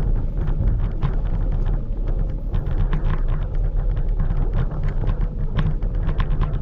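Scooter rolling over paving: a steady low rumble with frequent rattling clicks, and wind buffeting the microphone.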